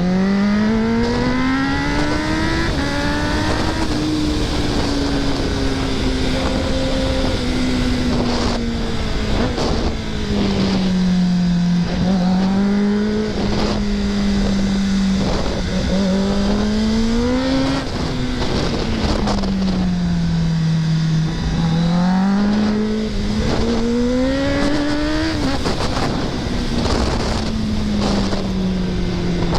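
A Kawasaki ZX-10R's inline-four engine under way, its pitch climbing under throttle and falling off again several times as the bike is ridden through curves, with a sharp drop near the end of the last climb. Wind rushes steadily over the microphone underneath.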